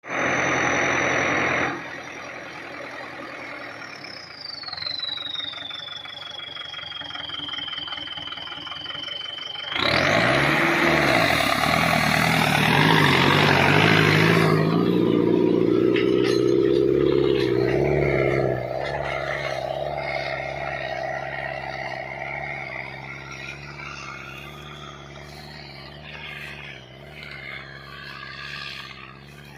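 Sonalika DI 60 tractor's diesel engine running. A high whistle glides downward early on, and a sudden loud surge about ten seconds in settles into a steady running note that eases off in the second half.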